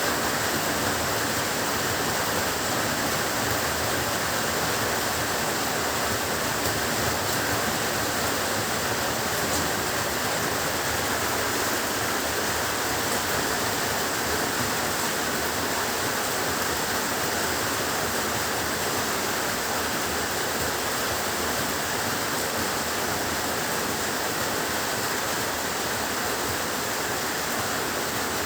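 Heavy rain falling steadily, a dense, even hiss with no thunder and no changes.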